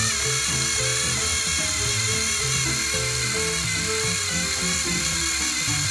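Background music with a beat, over a steady high-pitched electric motor whine from battery-powered toy trains pushing against each other.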